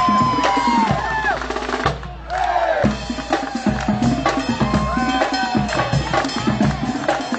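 Live college band playing: horn lines with bending notes over a drum kit keeping the beat, with a brief drop in the playing about two seconds in.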